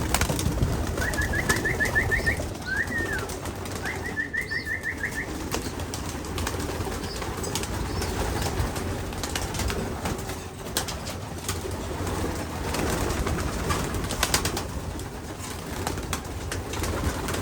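Homing pigeons in a loft, with a steady background of bird rustle and low sounds. Two short runs of quick, high, repeated chirps come about a second in and about four seconds in.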